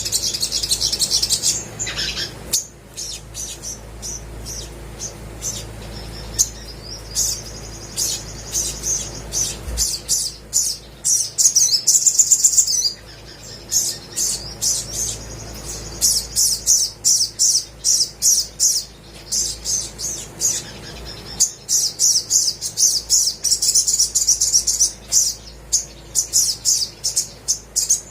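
Olive-backed sunbird singing: rapid runs of short, high chirps and trills, broken by a few brief pauses.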